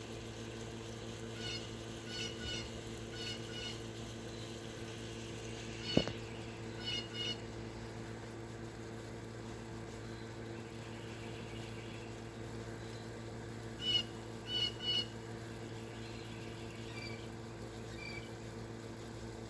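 A bird calling in clusters of short, quick chirps, over a steady low hum. A single sharp click about six seconds in.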